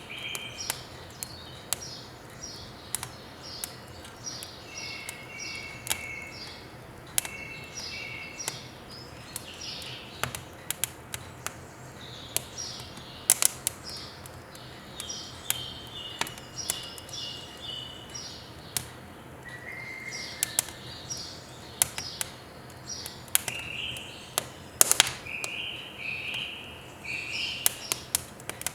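Small birds singing in repeated short chirping phrases, over sharp, irregular crackles and pops of firewood burning in a wood stove.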